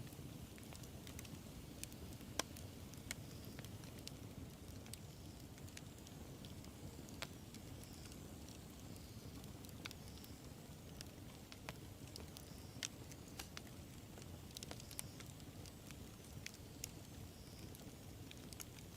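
Wood campfire burning: a steady low rumble of the flames with scattered sharp crackles and pops, the loudest pop about two and a half seconds in.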